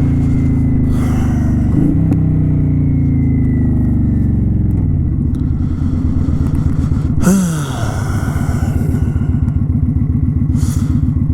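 Kawasaki Vulcan 900 V-twin motorcycle engine slowing, its note falling steadily over the first five seconds, then settling into a low, even, pulsing idle. About seven seconds in there is one short blip of revs that drops straight back.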